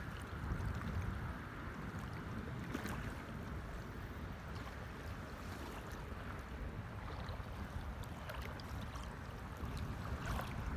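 Steady outdoor rumble and hiss of wind and sea water, with a few faint clicks.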